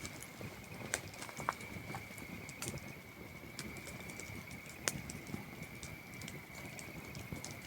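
Campfire crackling with scattered sharp pops, the loudest about a second in and near five seconds in, over a steady high-pitched trill of crickets.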